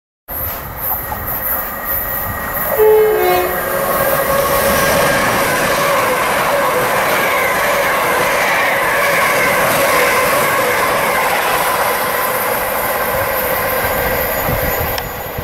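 LNER Azuma high-speed train sounding a short two-note horn, the second note lower, about three seconds in, then running through the station at speed with a steady rush of wheel and air noise.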